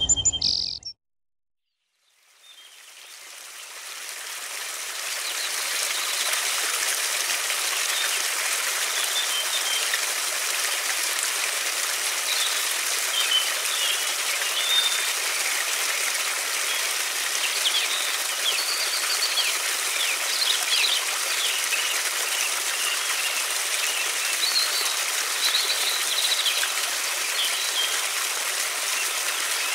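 Steady rushing of a flowing river, fading in over the first few seconds, with small birds chirping now and then from about a third of the way in.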